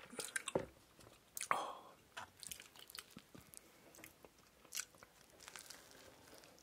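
Close-miked chewing and biting of a Lotteria shrimp burger, with soft crunches and wet mouth clicks. A sharper knock comes about a second and a half in.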